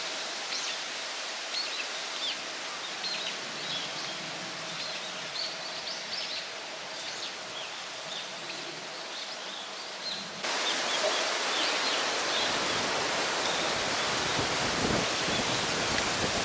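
Outdoor ambience: a steady hiss with small birds chirping in quick, high calls. About ten seconds in it jumps abruptly to a louder, steady rushing noise.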